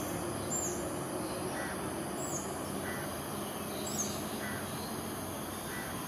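Steady outdoor background noise with a small bird's short, high, falling chirps repeating every second or two, and fainter lower calls in between.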